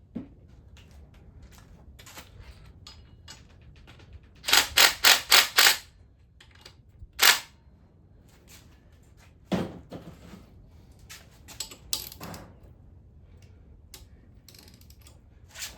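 Sharp metal knocks from tools at work on an engine being torn down. First a quick run of five, about four a second, then a single loud knock, then scattered lighter knocks and clanks.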